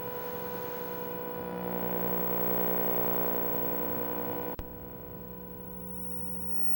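Electromagnetic pickup coil of a DIY analog synth turning stray electrical fields in the room into sound: a steady electrical buzz of many stacked tones, with a hiss that swells in the middle. A sudden click comes about four and a half seconds in, and after it the buzz carries on more quietly.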